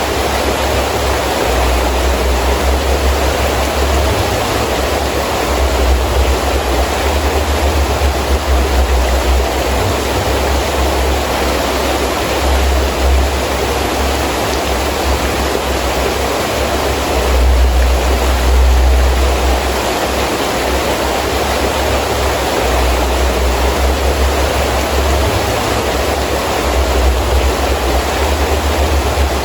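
Heavy rain falling steadily, with gusts of wind that come and go every few seconds as low rumbles.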